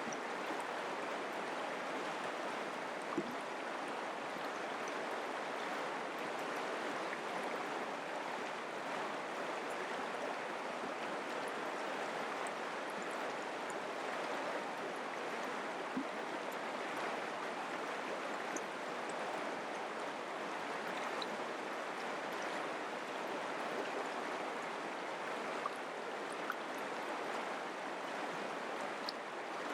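Mountain creek water running steadily over rocks, an even rushing with a few faint ticks of splashing.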